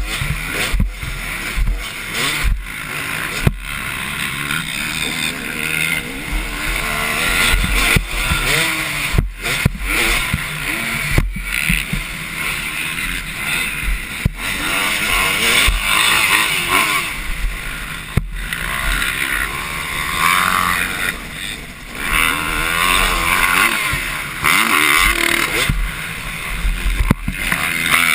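Motocross motorcycles racing, their engines revving up and down continuously as they accelerate and shift.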